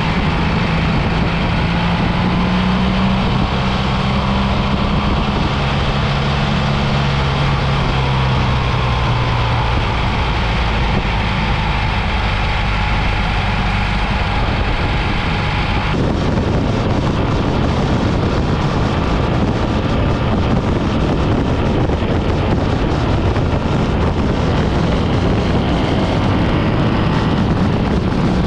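BMW R 1300 GS boxer-twin engine running on the move, its note sliding down in pitch over the first several seconds. About halfway through the sound changes suddenly to heavy wind rush on the microphone over the engine.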